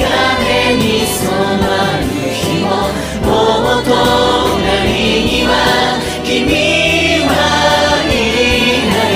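Music: a pop song sung by several voices layered in unison, sounding like a choir, over a steady backing track.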